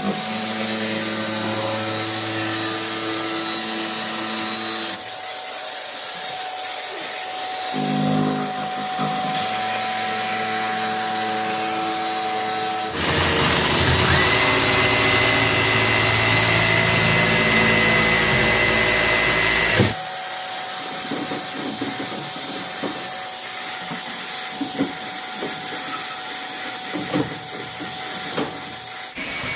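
A power tool runs steadily for about seven seconds in the middle, starting and stopping abruptly, with a steady high whine over its noise. Before and after it come quieter steady tones and scattered knocks and clicks of installation work.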